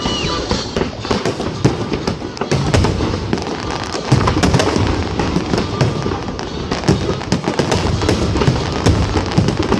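Aerial fireworks going off in quick succession: a dense run of crackling reports over deep booms, growing louder about four seconds in.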